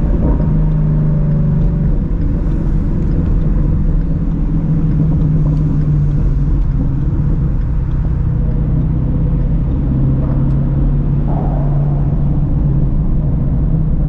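Shelby GT350's flat-plane-crank V8 running at steady, moderate revs while cruising, its exhaust note holding a nearly constant pitch over a wide road noise.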